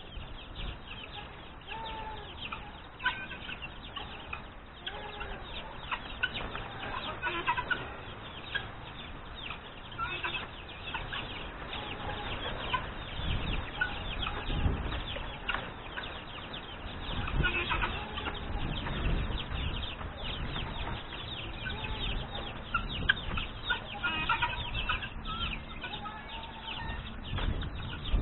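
Chickens clucking among a busy chatter of farmyard poultry, with some low thumps now and then.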